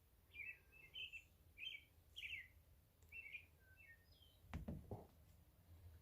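Faint bird chirping, a run of short chirps, with a dull knock about four and a half seconds in.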